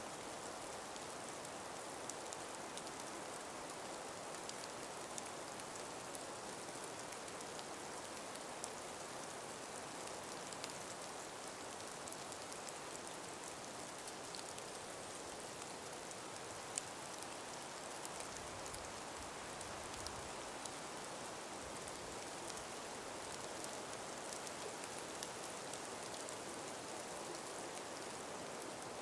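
Calm breeze in an ice- and snow-laden forest: a faint, steady hiss with scattered light ticks, one a little sharper about halfway through.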